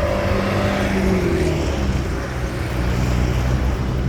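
Road traffic: a steady low rumble of vehicle engines, with one engine's hum dropping in pitch about a second in as it passes.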